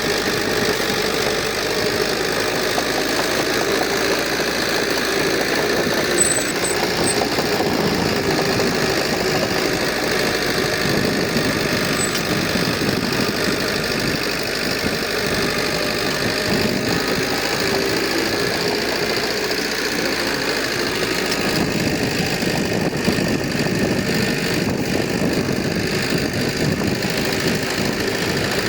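Diesel engine of heavy earthmoving equipment running steadily, with no clear changes in load or speed.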